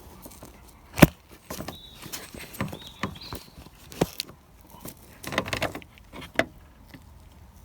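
Hand tools working a radiator hose clamp: scattered metallic clicks and knocks, the sharpest about a second in and another near four seconds.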